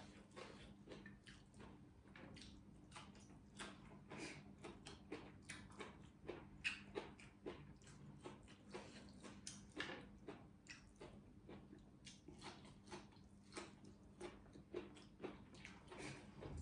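A person chewing and biting into fresh leafy greens: soft, irregular crunches and mouth clicks, several a second, with slightly louder bites around the middle.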